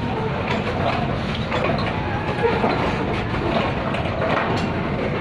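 Freight train's covered wagons rolling past at close range: a steady rumble of steel wheels on the rails, with irregular clicks and knocks from the wheels and bogies.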